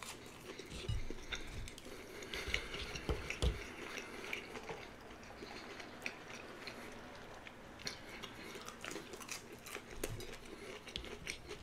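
Close-up chewing and crunching of crispy fried Burger King chicken nuggets, with wet mouth sounds and many small crackles, busiest in the first few seconds. A few light clicks from the plate as more nuggets are picked up.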